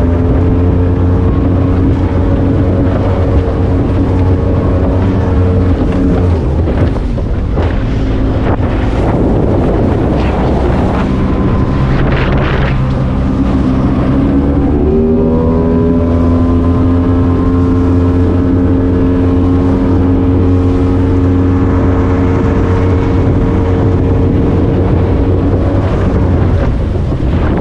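Race boat's outboard engine running at high speed, with wind noise on the microphone. Its steady tone breaks up for several seconds midway, then climbs in pitch and holds steady again.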